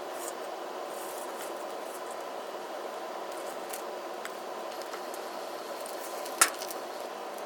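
Steady background hiss with scattered faint ticks and one sharp click about six seconds in.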